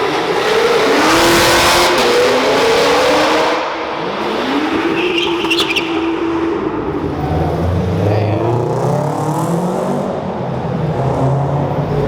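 Cars accelerating hard away from a car meet: engine notes climbing in pitch as they rev up through the gears, one car after another, with a deep low engine rumble in the second half.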